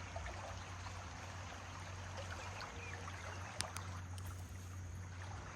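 A full, fast-flowing river rushing steadily over rocks, with a single sharp click about three and a half seconds in.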